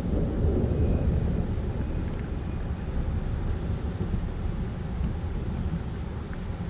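Thunder rumbling low and slowly dying away.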